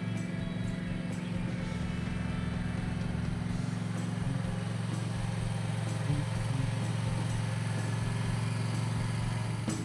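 Small engine running at a steady speed, which breaks off abruptly near the end.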